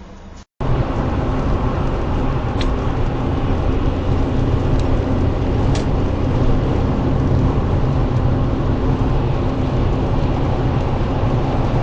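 Steady vehicle engine and road noise as picked up by a dashcam while driving, with a few faint ticks. It starts abruptly about half a second in, after a moment of silence.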